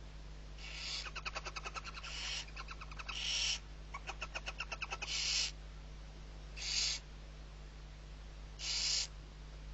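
Barn owl chick giving its hissing, snore-like begging call six times, each about half a second long and roughly one and a half seconds apart. Two fast runs of short pulsed chittering notes come between the calls, about one and four seconds in.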